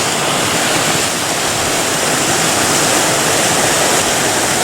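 Water pouring over a small stream weir, a loud, steady rushing.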